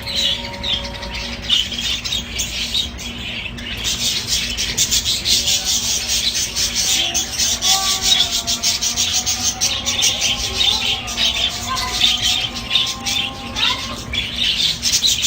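Many small cage birds in an aviary chirping and chattering continuously, a dense rapid twitter, with a few lower, drawn-out calls among them.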